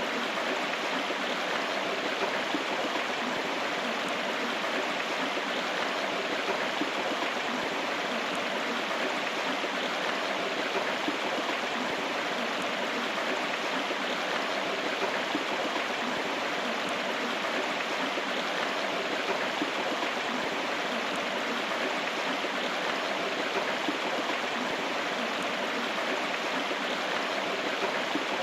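A river or stream flowing with a steady, even rush of water.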